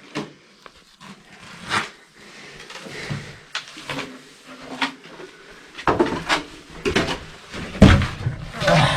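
Irregular knocks and clatters of someone moving and rummaging inside an abandoned jet's hollow metal fuselage, the strikes getting louder and closer together in the second half.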